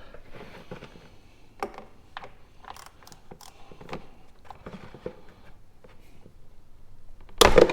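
Socket wrench with a 17 mm socket and extension clinking and clicking as it is fitted onto a motorcycle's oil drain plug, with a loud sharp crack near the end as the drain plug breaks loose.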